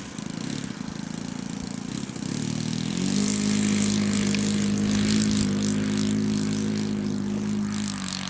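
A vehicle engine running: its revs rise about a third of the way in and are held steady at a higher, louder pitch for several seconds, then drop back near the end.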